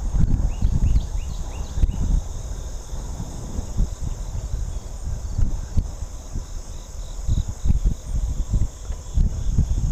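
Wind buffeting the microphone of a moving bicycle, a gusty low rumble, over a steady high drone of insects from the trailside. About six quick chirps come in the first two seconds.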